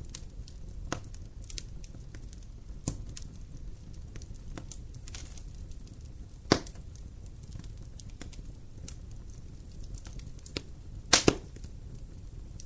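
Wood fire burning in a fireplace: a steady low rumble of flames with scattered crackles, a loud pop about six and a half seconds in and a quick cluster of pops near the end.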